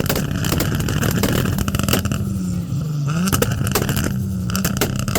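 A car engine revved hard and held at high revs, easing off about two and a half seconds in, then revved up and held again, with sharp crackles throughout.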